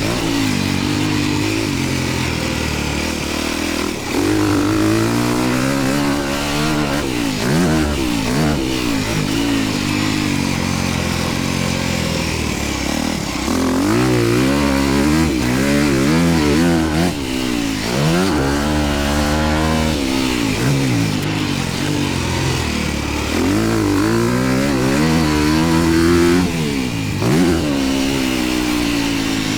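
Dirt bike engine revving hard and backing off again and again as it is ridden around a track, its pitch climbing and falling every few seconds, with a steady rush of wind over it.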